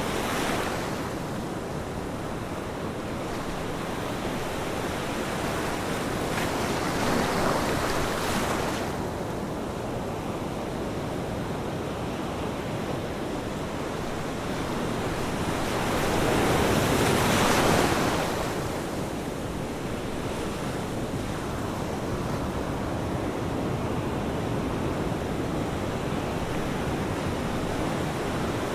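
Ocean waves breaking and washing onto shore over a steady rush of surf, with two louder wave surges, about 7 seconds in and a stronger one about 17 seconds in.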